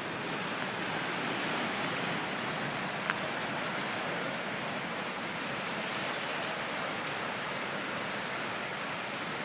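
Heavy flow of water rushing out of a dam's outlet tube and churning downstream in a steady roar, with one brief click about three seconds in.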